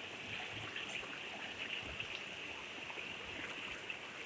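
River water running over rocks, with small splashes and trickles over a steady rushing.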